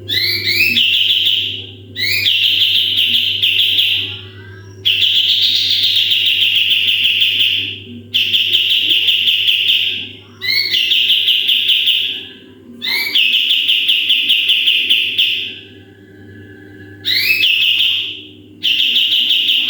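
Kapas tembak songbird singing its rapid 'tembakan' song: bursts of two to three seconds, each opening with a few short rising notes and running into a fast, high trill of repeated notes. About eight bursts come with brief pauses between them, over a faint steady low hum.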